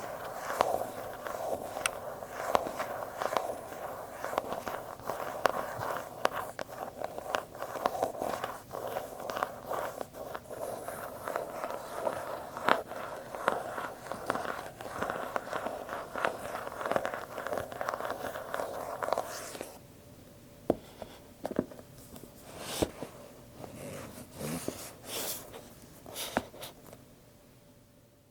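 Apple product boxes being handled close up, with continuous scratching and rubbing on their surfaces and many small taps. About twenty seconds in, the rubbing stops and only a few separate taps remain before the sound fades out.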